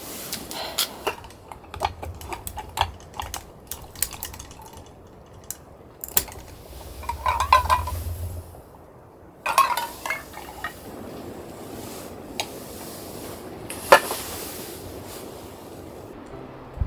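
Dishes and utensils clinking and knocking: scattered light clicks, a couple of short clusters of ringing taps, and one sharp knock, the loudest, about fourteen seconds in.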